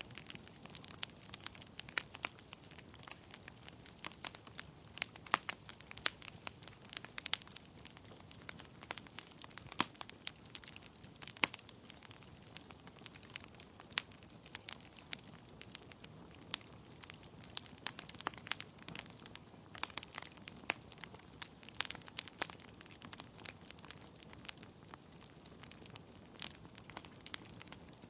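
Wood fire crackling in a fireplace: burning logs pop and snap in quick irregular clicks over a low hiss of flame.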